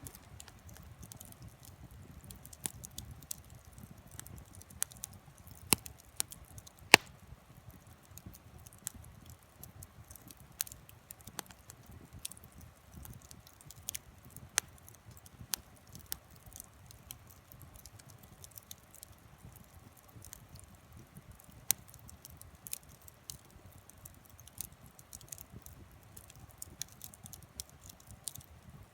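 Wood fire crackling, with irregular sharp pops over a faint low rumble; the loudest pop comes about seven seconds in.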